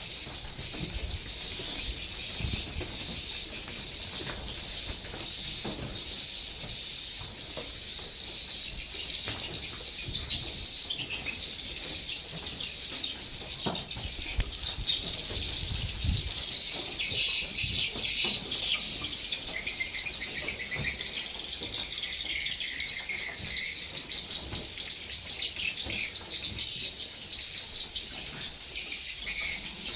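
A colony of swiftlets twittering in a dense, continuous high-pitched chorus of short chirps inside a swiftlet house, with scattered clicks.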